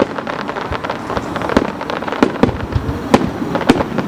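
Fireworks shells bursting overhead: many sharp bangs in quick, irregular succession over continuous crackling.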